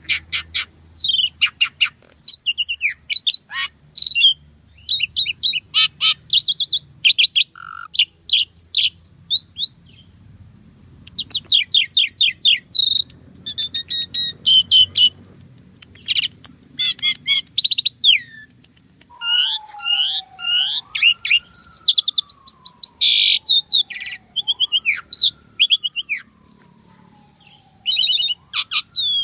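Asian pied starling (jalak suren) singing a fast, varied run of chirps, whistles and trills, typical of a bird in full song with mimicked phrases. From about two-thirds of the way in, a long, lower whistle glides slowly down and then back up underneath the chirps, repeating every few seconds.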